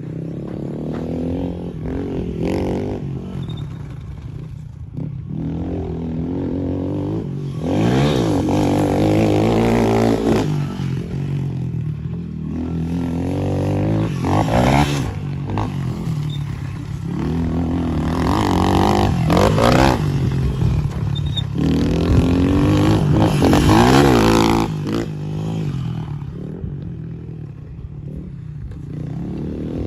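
Small dirt bike engine idling and being revved hard again and again, its pitch climbing and falling back several times, run up against the rev limiter.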